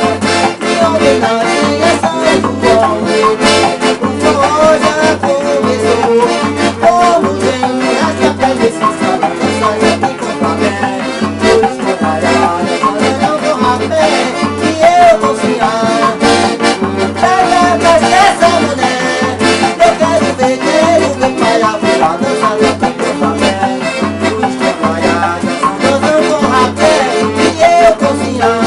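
Accordion (sanfona) playing a lively Brazilian festa junina tune over a steady bass beat.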